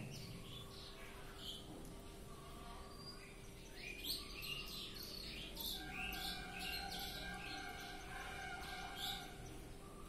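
Birds chirping and calling, sparse at first, then a busy run of quick chirps from about four seconds in to near the end.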